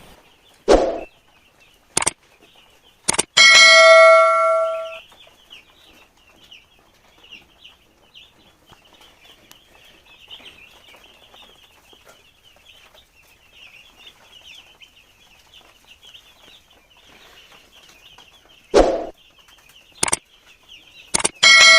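Broiler chicks peeping steadily and faintly, a dense high chirping. A bell-like chime rings for about a second and a half a few seconds in, and a handful of short sharp knocks come at intervals.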